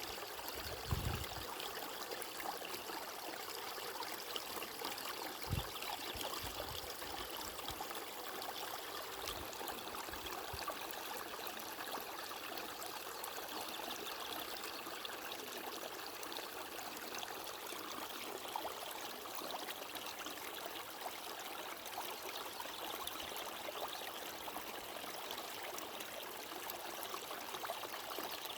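Steady running water of a stream, an even rushing trickle. A few soft low thuds come in the first third.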